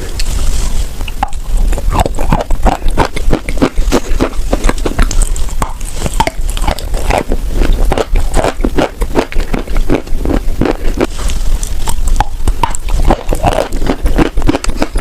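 Biting and chewing of wet edible chalk with paste, heard close up: dense, irregular crisp crunches several times a second, over a steady low hum.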